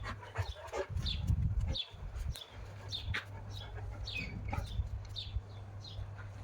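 Birds chirping repeatedly in short falling chirps over a steady low hum, with some low rumbling thumps in the first two seconds.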